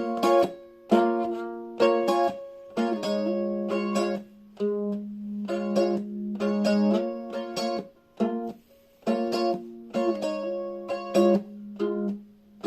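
Plucked string instrument playing a run of chords without singing: each chord is struck sharply and left to ring, with a short break about eight seconds in.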